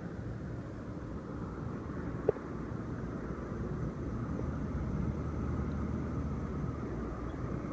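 Low, steady background rumble that swells a little midway, with one sharp click a little over two seconds in.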